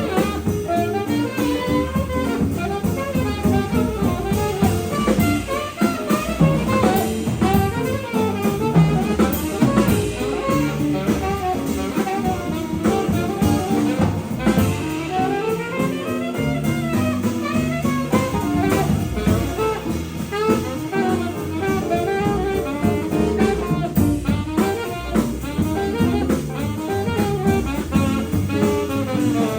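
Jazz quintet of alto sax, guitar, piano, bass and drums playing a fast swing tune. A quick running solo line, saxophone-like, plays over walking bass and drums.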